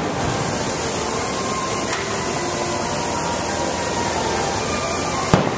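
Aerial firework shells bursting: a faint bang about two seconds in and a sharp bang near the end, over a steady hiss of background noise.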